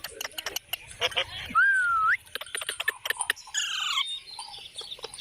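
Parrot calling: a whistled, sliding call about a second and a half in and a harsh trilled squawk a couple of seconds later, among quick clicks and taps.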